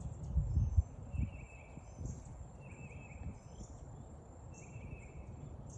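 Outdoor ambience of insects chirring steadily with a high thin tone, and a short buzzy call repeating about every second and a half. A few low thumps come in the first second.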